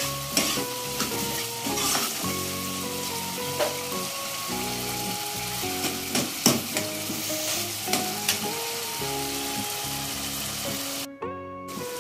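Tomato tadka frying in oil in a kadhai, with a steady sizzle as a metal ladle stirs it and clinks against the pan a few times. Soft background music with held notes plays underneath, and the sound cuts out briefly near the end.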